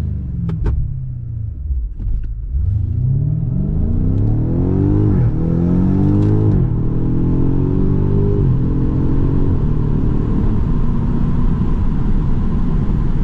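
BMW F90 M5 Competition's twin-turbo V8 on its stock exhaust, heard from inside the cabin: the revs fall, then it pulls hard, rising in pitch through quick upshifts before settling to a steady cruise. Two sharp clicks about half a second in.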